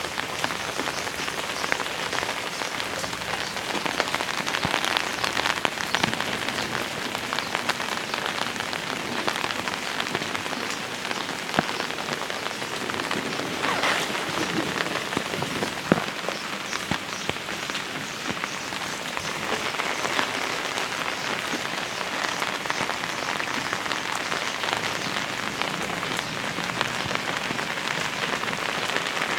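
Heavy rain falling steadily, a dense hiss of drops ticking on hard surfaces, with a few louder single drop hits in the middle.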